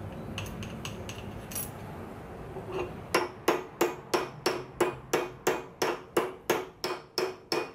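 Hammer blows on metal: steady strikes, about three a second, beginning about three seconds in, each with a short metallic ring.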